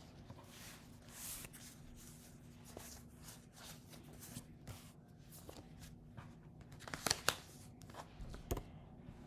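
A deck of reading cards being shuffled by hand, a faint soft rustle, with a few sharper taps and a low knock near the end.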